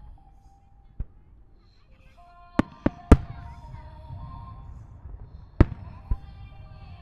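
Aerial firework shells bursting in a fireworks display: a single bang, then a quick cluster of three about two and a half to three seconds in (the last the loudest), with a low rumble after them and two more bangs near the end. Music plays underneath throughout.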